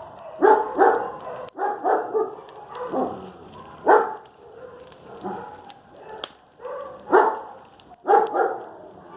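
A dog barking repeatedly: short, loud barks about once a second.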